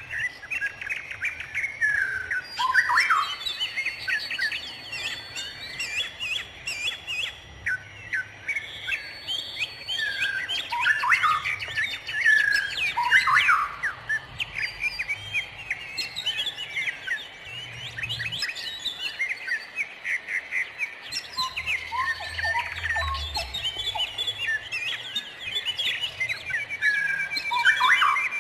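Many wild songbirds chirping and whistling at once, their calls overlapping. A fast, even trill joins in near the end.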